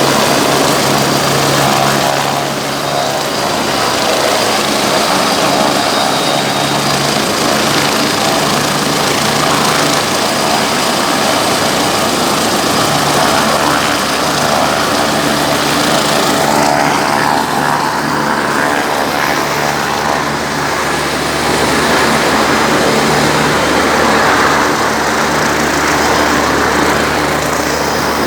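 Helicopter rotor and engine running, a loud steady drone with a low hum beneath.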